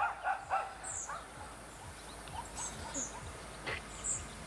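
Small birds chirping outdoors: short, high chirps spaced about a second apart, with a few fainter short sounds early on.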